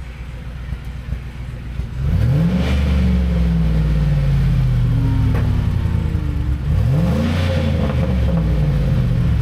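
Ford F-150 engine revved through its stock exhaust. It idles at first, then about two seconds in it is blipped up, held, and slowly falls back. A second short rev follows near seven seconds, and another begins near the end.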